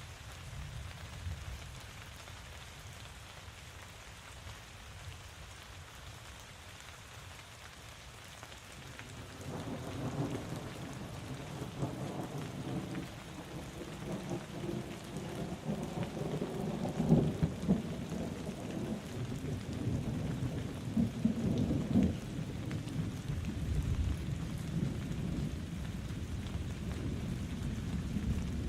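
Steady rain falling. About a third of the way in, rolling thunder starts and rumbles on in uneven swells, loudest a little past the middle.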